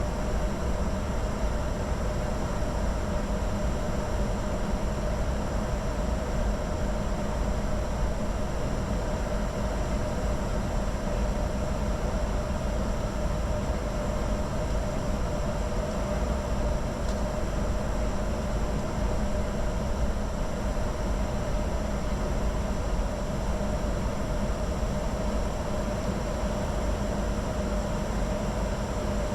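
Steady flight-deck noise of a Bombardier Challenger 605 jet in flight: a constant rush of airflow and engine noise, with a faint steady whine on top.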